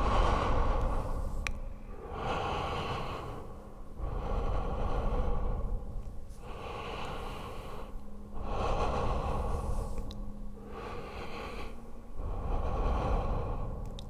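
Slow human breathing in and out, the 'in space' breathing effect, with about one full breath every four seconds over a steady low hum.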